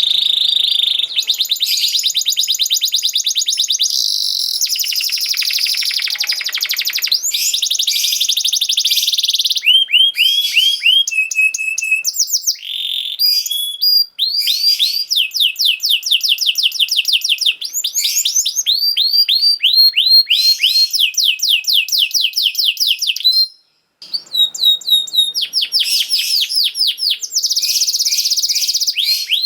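Domestic canary singing: a string of rapid trills, each a fast run of the same high whistled note repeated many times, switching to a new trill every second or few. The song breaks off briefly about halfway through and again near the end.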